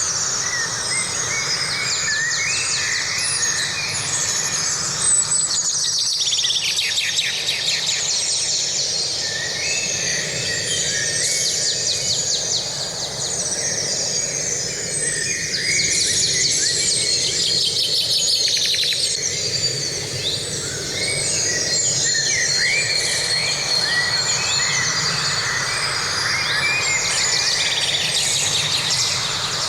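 Chorus of many songbirds singing and calling at once, with fast chirps, sweeping notes and rapid trills, over a steady low background rumble.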